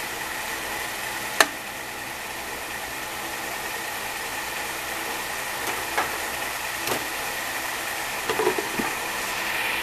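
Beef strips, onions and green peppers sizzling steadily in a frying pan. A sharp tap of a utensil on the pan comes about a second and a half in, then lighter knocks and scraping as the food is stirred near the end.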